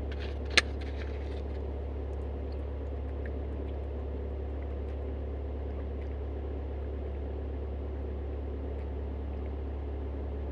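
Steady low drone of an engine running at a constant idle, with a single sharp click about half a second in.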